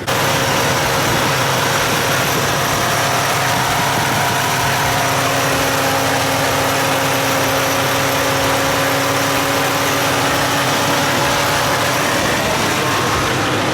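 Car engine idling steadily, a constant running noise with a faint steady hum.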